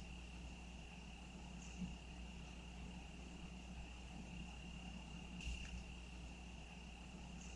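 Crickets trilling faintly and steadily on one unbroken high pitch over a low background rumble, with two soft ticks about two and five and a half seconds in.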